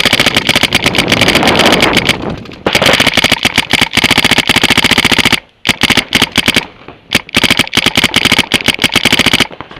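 Electronic paintball markers firing in long, rapid strings, about ten shots a second, with short pauses between the strings.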